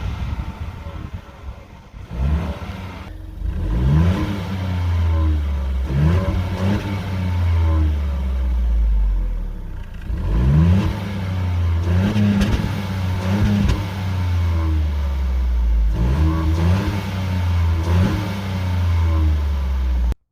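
Ford Fiesta Mk8 ST-Line petrol engine on its standard factory exhaust, idling and being revved repeatedly: quick blips that rise in pitch and fall back to idle, about eight times.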